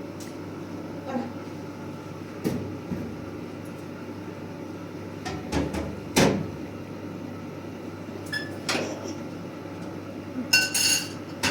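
Scattered knocks and clinks of objects being handled over a steady low hum, with the loudest knock about six seconds in and a short ringing metallic clink near the end.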